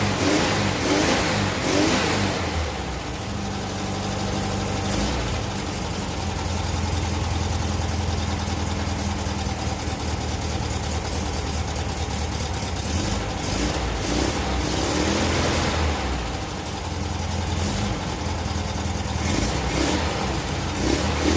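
VW air-cooled flat-four engine running in a VW single cab pickup, idling with brief revs at the start, about two-thirds through and near the end. It runs poorly and very rich, which the owner puts down to a carburetor not jetted for this engine.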